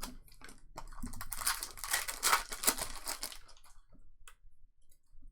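A trading card pack's wrapper being torn open and crinkled: a dense crackling for about two seconds, with scattered light clicks and rustles of cards being handled before and after.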